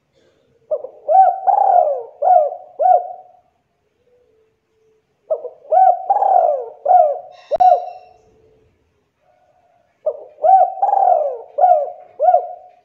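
Spotted dove (tekukur) cooing: three phrases of several notes each, separated by pauses of about two seconds, with a brief click during the second phrase.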